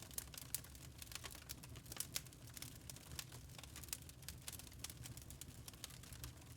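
Burning logs crackling in a fireplace: a steady scatter of sharp, irregular snaps and pops over a low, even rumble.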